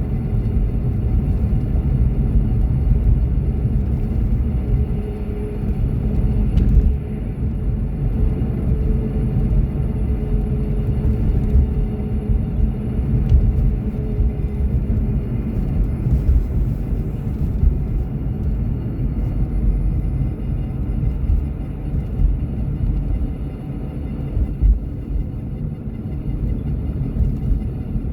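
A car driving, with a steady low rumble of road and engine noise heard from inside the cabin.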